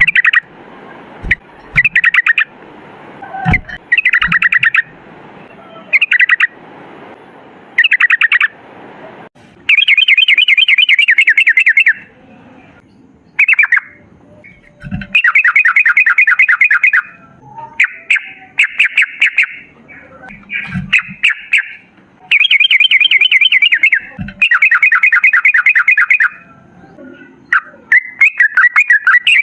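Yellow-vented bulbul singing its rapid, rattling 'ropel' song: fast bubbling trills repeated in bursts, some brief and some about two seconds long, separated by short pauses.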